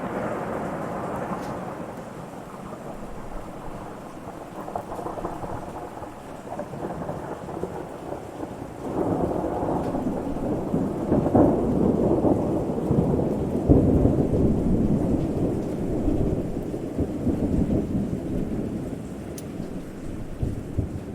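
Rolling thunder rumbling with rain falling steadily. The rumble swells about nine seconds in, is loudest around the middle, then slowly dies away.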